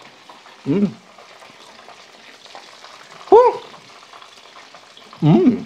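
Chicken nuggets frying in a pan, a steady faint sizzle, broken three times by a man's short wordless vocal sounds.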